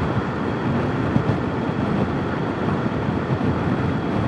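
Steady wind rush and engine and road noise from a motorcycle at road speed, picked up by a helmet-mounted intercom microphone.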